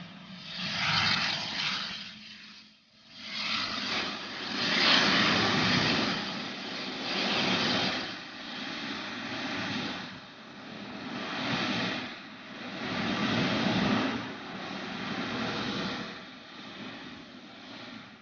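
Jet aircraft engines heard as a large plane passes: a loud rushing noise that swells and eases several times.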